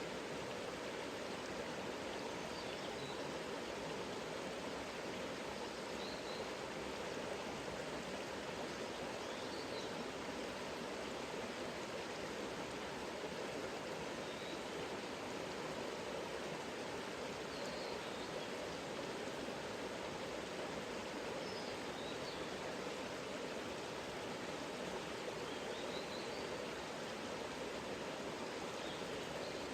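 Mountain river running steadily over rocks, with a small bird giving short, faint, high chirps every few seconds.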